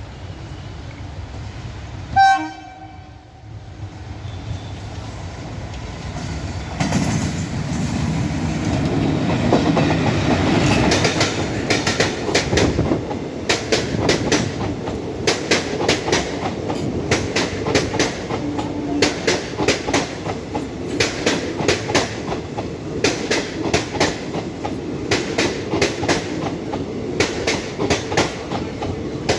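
A train horn blares once, briefly, about two seconds in. Then the Purulia–Villupuram Express approaches and the rumble of the train builds. From about eleven seconds in, the wheels clack over the rail joints in a quick, regular rhythm as the coaches run past.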